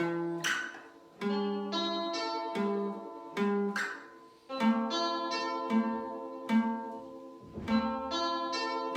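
Slow, ringing plucked-string music, guitar-like: single notes picked one after another in repeating arpeggio patterns over changing bass notes.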